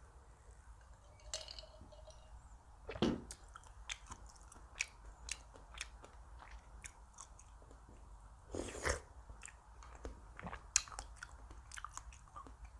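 A person chewing food close to the microphone: a run of small wet chewing clicks with two louder crunchy bites, one about three seconds in and a longer one near nine seconds.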